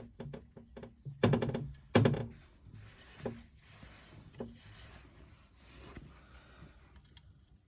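Metal knocks and clunks as a freshly oiled Honda CR125 crankcase half and its new ball bearings are handled on the bench: a quick run of light knocks, then two louder clunks, followed by a faint whirring hiss of bearings spun by finger.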